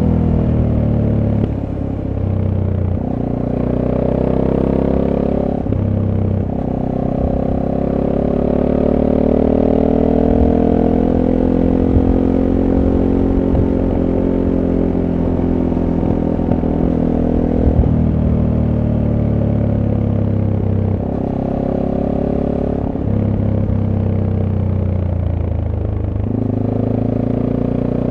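SWM Superdual T motorcycle's single-cylinder engine through its stock exhaust, heard on board while riding: the engine note rises and falls with the throttle and drops suddenly at several gear changes.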